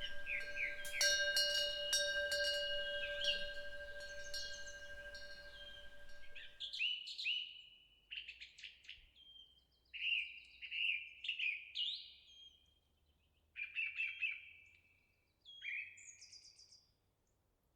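Metal temple eaves bells (pungyeong) ringing in the wind, with repeated strikes over a sustained ring; about seven seconds in the ringing cuts off suddenly and songbirds take over with phrases of short chirping notes separated by pauses.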